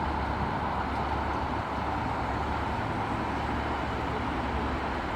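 Class 156 and Class 150 Sprinter diesel multiple units standing at the platform with their underfloor diesel engines idling: a steady rumble with a constant low hum.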